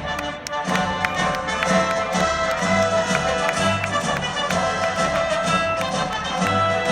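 Live orchestral music with sustained string and wind lines, and many short, sharp cracks scattered over it.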